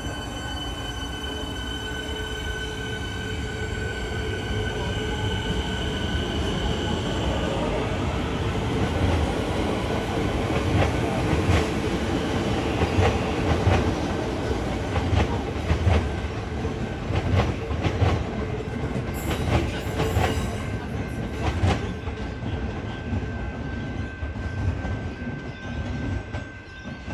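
A train passing along the track, with a steady whine for the first several seconds and then a long run of sharp clicks from the wheels over rail joints, loudest in the middle and dying away near the end.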